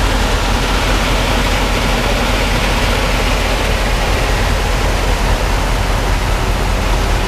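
Concrete mixer truck running, with a loud steady rushing noise and a low hum underneath as it discharges concrete down a tube to a truck below.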